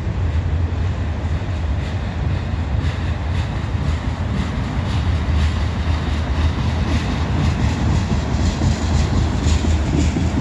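Long freight train rolling slowly past close by: a steady low rumble of wheels on rail with faint rhythmic clicks.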